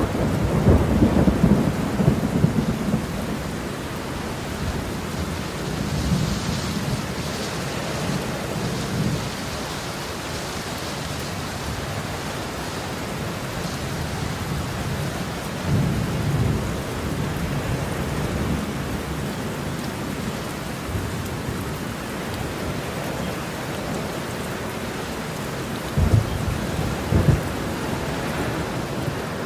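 Heavy rain falling steadily, with thunder rolling through it: a long low rumble in the first few seconds, further rumbles partway through, and two short, sharper claps of thunder near the end.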